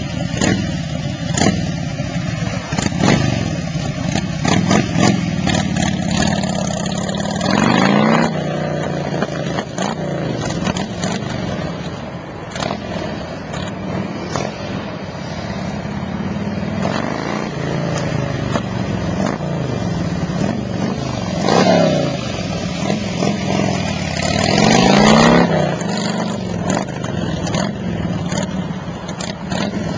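1999 Harley-Davidson Road King's Twin Cam 88 V-twin engine running as the bike pulls away and is ridden around, with rising revs as it accelerates about eight seconds in and twice more later on.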